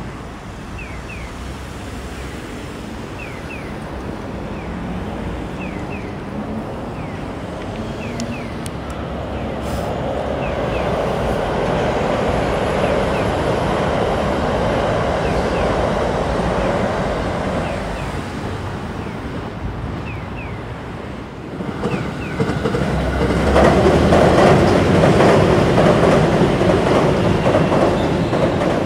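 Commuter train running across a railway bridge: a rumble of wheels on rail swells in the middle, eases briefly, then grows louder again with a rapid clatter of wheels over rail joints in the last third.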